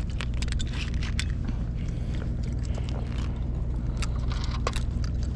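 A steady low engine hum, with many short sharp clicks and crackles scattered over it.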